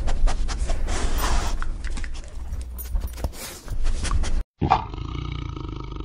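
A small dog's sounds over low wind rumble and sharp clicks. After a brief silent cut about four and a half seconds in, a tiger growls.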